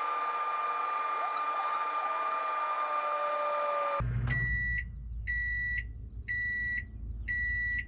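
Steady high-pitched hum, then the microwave oven's end-of-cycle beeper sounding four times, about one beep a second, over a low hum: the heating cycle has finished.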